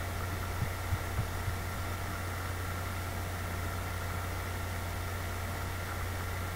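Steady low hum and hiss of background noise, with a few faint clicks in the first second and a half.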